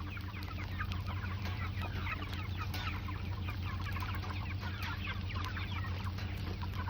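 A flock of Cornish Cross meat chickens clucking and peeping continuously in many short, overlapping calls, over a steady low hum.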